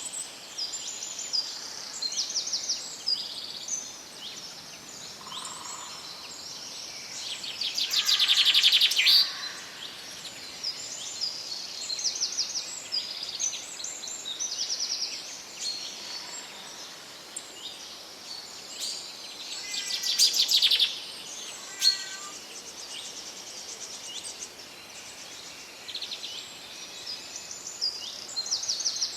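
Forest birds singing, with many short high chirps overlapping throughout and two louder rapid trills, about 8 seconds and 20 seconds in.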